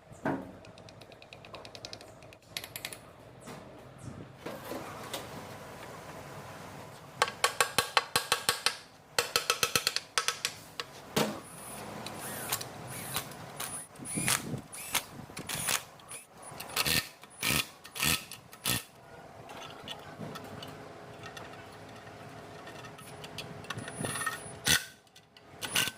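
Hand tools working on metal engine parts: a quick run of ringing metallic clicks and taps about seven seconds in, then scattered clicks and knocks.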